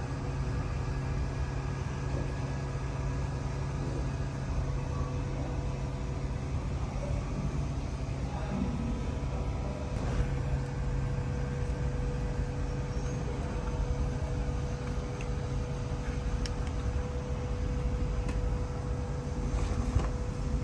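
Steady low hum of running workshop machinery, with a faint steady whine that sets in about halfway through and a few light clicks.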